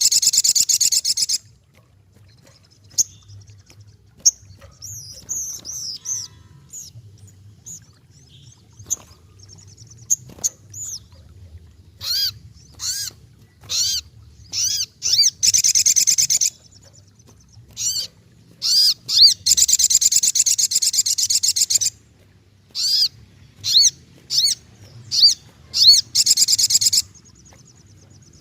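Spiderhunter (sogok ontong) calling in loud, fast, high-pitched trilled bursts, some lasting a couple of seconds, separated by scattered single sharp chirps.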